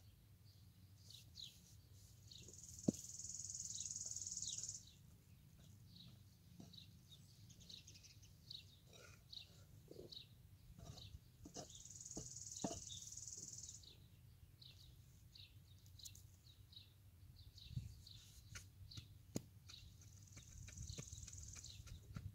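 Songbirds calling: short high chirps throughout, and three times a high, dry trill lasting two to three seconds, the loudest sound. A few faint sharp knocks sit in between.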